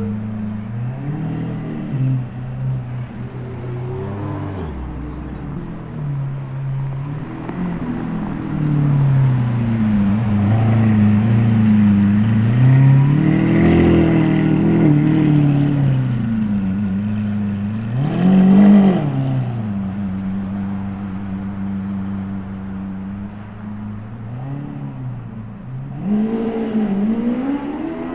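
Supercar engine sounds in street traffic: engine notes rise and fall as the cars rev and accelerate. A sharp rev climbs and drops away about two-thirds of the way in, followed by a steadier held engine note.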